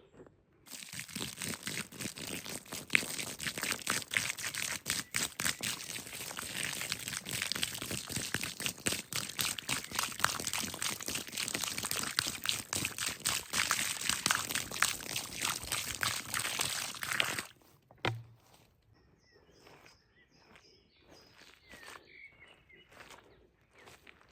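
Dense crackling and rustling of dry material, thick with small snaps. It starts abruptly just after the start and cuts off suddenly about three-quarters of the way through. Then come faint scattered clicks and a few short chirps.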